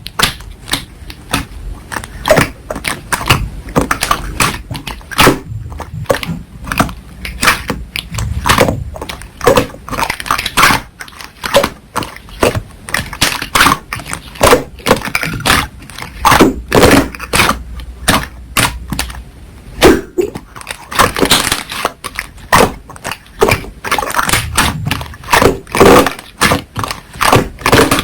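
Slime being squeezed and kneaded by hand, giving dense, irregular trains of sharp little pops and clicks as trapped air bursts.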